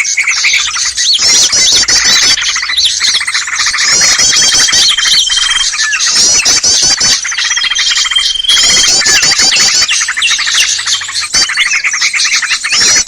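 Loud, dense chorus of many small songbirds chirping and chattering at once, with rapid rising and falling notes and a steady high trill held for a second or two, twice: a bird-lure call recording played to draw small wild birds in.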